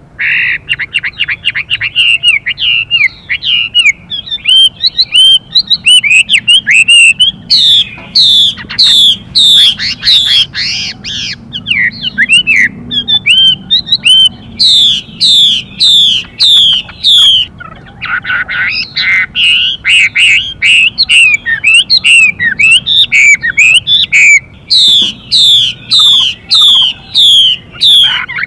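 Chinese hwamei singing loudly and continuously, switching between phrases: quick trills and chattering notes, and runs of clear whistles that each sweep steeply downward, repeated about three times a second.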